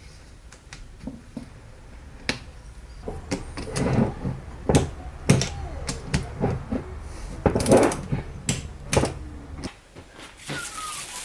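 A series of sharp knocks and clicks, irregular and several to the second at their busiest, as parts and tools are handled during the transmission rebuild, over a low hum that stops near the end.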